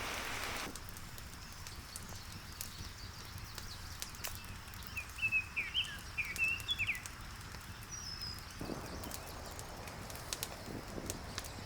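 Small birds chirping, a quick run of short high calls about five to seven seconds in. Behind them, scattered light crackling from the wood fire under the cooking pot.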